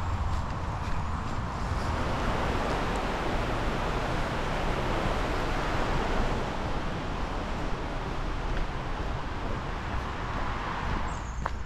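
Steady rushing of a stream's running water that swells through the middle and eases near the end.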